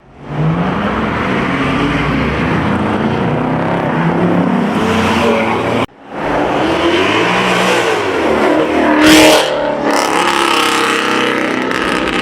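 Car engines revving and accelerating away, the pitch climbing and falling with each rev. The sound drops out for a moment about halfway through and then picks up again. Its loudest moment is a sharp surge of engine noise a little after that.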